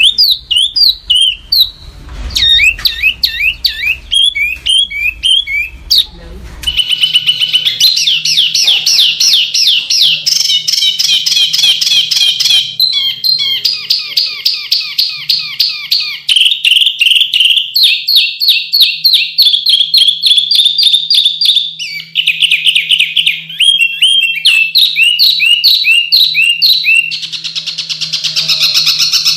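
Songbird singing rapid, sharp, closely packed bursts of high notes, the 'tembakan' of a masteran recording used to train caged songbirds. The song is sparser at first and becomes fast, near-continuous trilled runs about seven seconds in.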